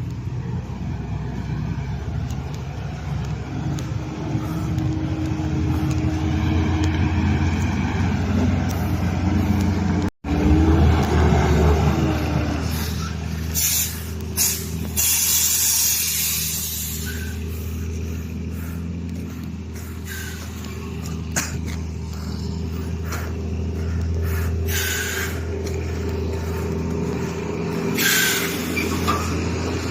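Heavy diesel truck engine running hard under load, a steady low drone, with a brief break about ten seconds in. Several short air hisses from the truck's air brakes come in the second half.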